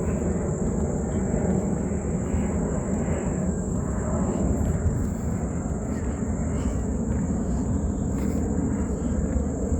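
Steady high-pitched insect drone over a constant low rumble, an outdoor field ambience.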